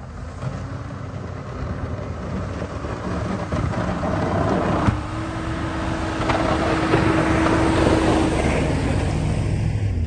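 Plow truck running and moving, with a noisy rush that builds over several seconds. There is a sharp knock about five seconds in, and a steady hum for a few seconds after it.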